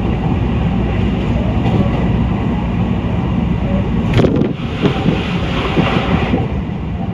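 A train running: a loud, steady low rumble, with a sharp clack about four seconds in followed by a hiss for a couple of seconds.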